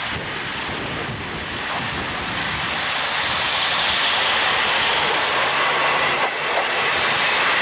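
A diesel train approaching, its running noise growing steadily louder over the first few seconds and then holding at a steady level.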